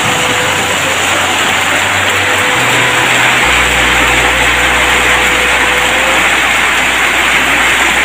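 Heavy rain falling in a steady downpour, with a low steady hum coming in about three and a half seconds in.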